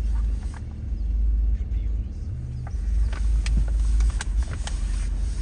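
Low steady rumble with several sharp clicks between about three and four and a half seconds in.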